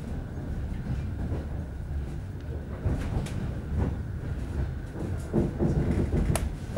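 Commuter train running, heard inside the passenger carriage: a steady low rumble of wheels on track with a few sharp clacks at uneven gaps as the wheels cross rail joints.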